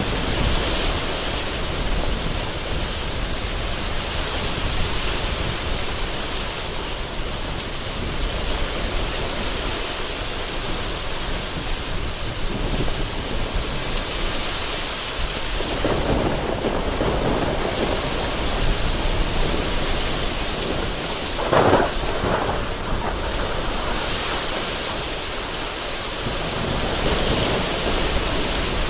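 Thunderstorm: heavy rain falling steadily, with thunder rumbling in the background. A rumble swells a little past halfway, and a short, sharp thunder crack comes about three-quarters of the way through.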